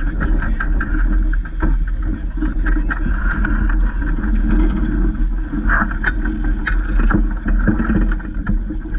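A small boat under way on the water: a steady rush and rumble of wind and water, broken by frequent small knocks and splashes.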